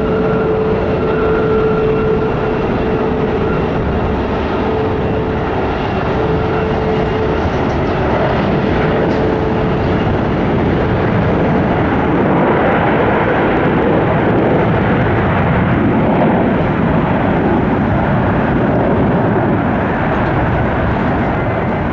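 Twin-engine Boeing 767-200 freighter landing, its jet engines making a loud, steady roar. A whine in the roar fades over the first few seconds, and the roar swells a little past the middle.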